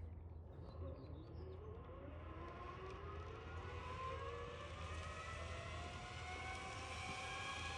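A motor speeding up: a faint whine that rises steadily in pitch over several seconds, over a steady low hum.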